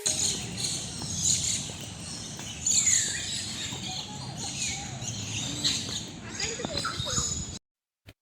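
Many birds chirping and calling over a low background hum, mostly short high-pitched notes, with one falling call about three seconds in. The sound cuts off abruptly near the end.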